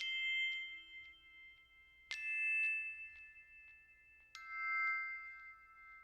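Three struck bell-like notes, one about every two seconds, each ringing on for a while after it is struck, like a chime or glockenspiel playing in music.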